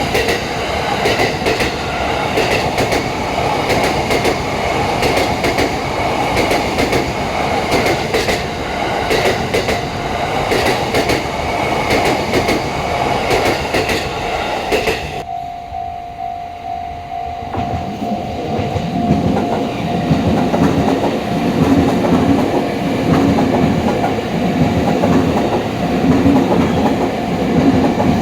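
Commuter train passing a level crossing, its wheels clacking over the rail joints. About halfway the sound cuts abruptly to a steady tone, and the low rumble of another train grows.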